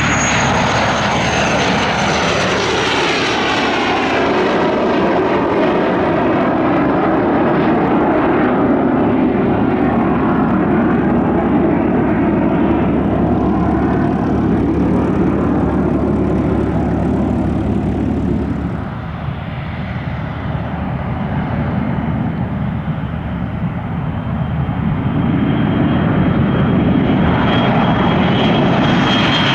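Fixed-wing aircraft engines running loudly close by, with a high whine that falls in pitch over the first few seconds as the aircraft passes. The noise eases about two-thirds of the way through, then builds again with a new steady whine near the end.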